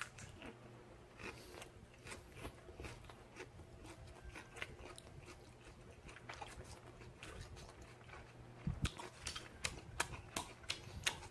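Faint chewing and biting while eating grilled pork belly (samgyeopsal) bossam: soft, irregular mouth clicks and crunches, coming thicker near the end.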